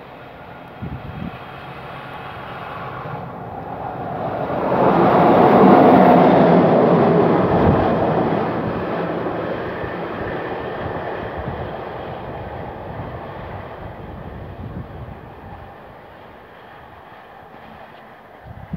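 Intermodal freight train carrying lorry trailers passing at speed: its wagon wheels rolling over the rails in a steady rumble. The rumble swells to its loudest about five seconds in, then slowly fades.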